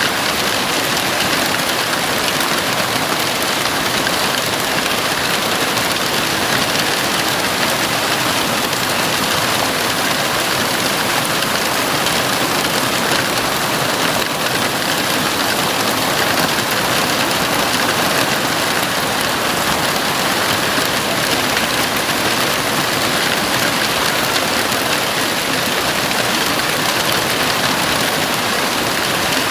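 Heavy rain falling steadily on a house roof, a dense, even hiss of drops with no thunder or break.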